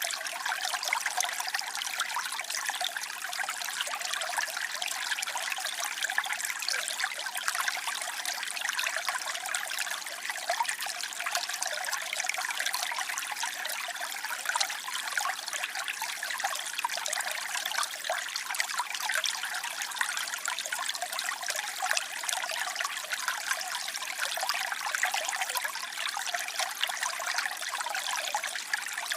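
Steady splashing and trickling of a waterfall, a continuous high, bright rush of falling water without breaks.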